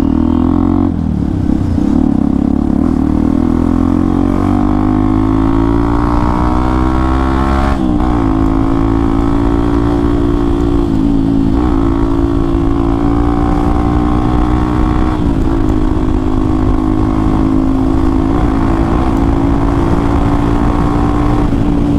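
Hero Xpulse 200 4V single-cylinder engine running through an aftermarket Akrapovic exhaust while riding. The engine note climbs gradually over the first several seconds, then holds steady with brief dips in pitch every few seconds.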